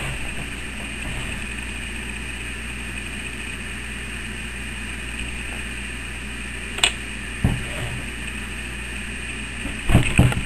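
Home sewing machine running with a steady hum, with a sharp click about seven seconds in and a few dull knocks near the end.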